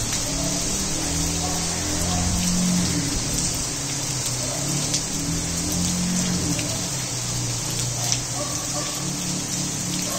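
Heavy rain pouring onto clay roof tiles and a flooded yard: a dense, steady hiss with scattered sharp drop impacts. Faint low tones hum underneath, changing pitch now and then.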